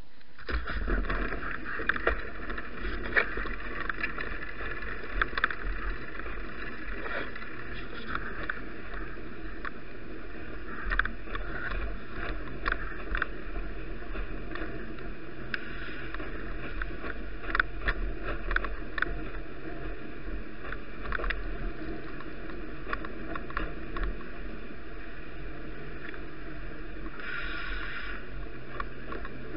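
Ride noise from a bicycle on a snowy, wet road, picked up by an action camera on the bike: steady tyre, wind and rumble noise with frequent small clicks and rattles.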